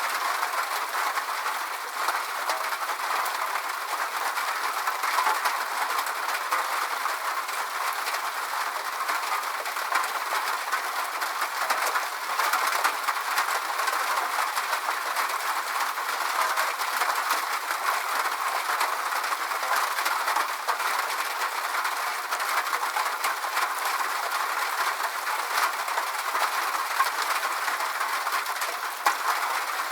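Steady rain falling, an even hiss dense with small drop ticks.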